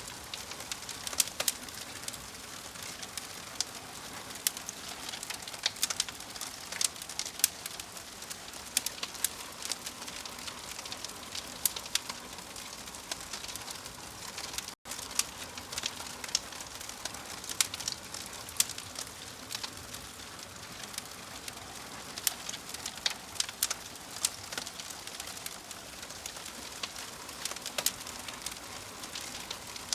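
Wood fire in a fireplace burning and crackling, with irregular sharp pops from the logs over a steady soft hiss. The sound cuts out for a moment about halfway through.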